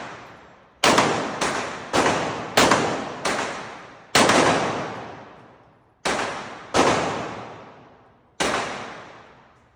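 Gunshots at a shooting range: nine sharp reports, each trailing off in a long echoing decay. The first six come about half a second apart, then three more follow at wider gaps.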